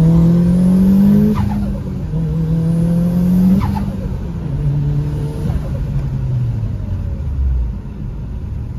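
Turbocharged four-cylinder of a Mitsubishi Lancer Evolution heard from inside the cabin, accelerating hard. The engine note climbs and drops at two upshifts about two seconds apart, pulls again, then eases off to a lower steady note. A faint high whistle climbs with the first two pulls.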